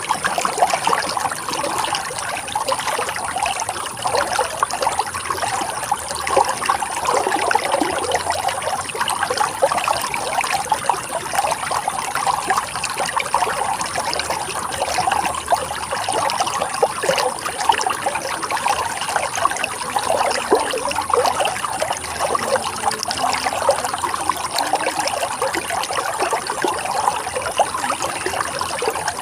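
Running water flowing steadily, with a constant rush full of small splashes and gurgles.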